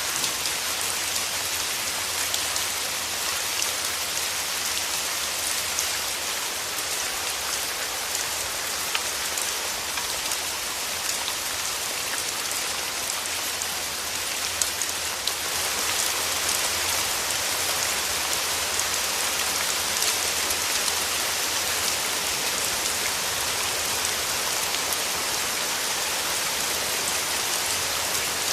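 Steady rain falling, with many small drops ticking on surfaces; the rain grows a little heavier about halfway through.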